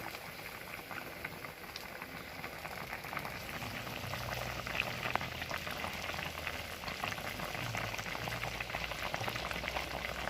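Pot of seasoned chicken bubbling and sizzling on the stove as it cooks down, a steady crackle of small pops.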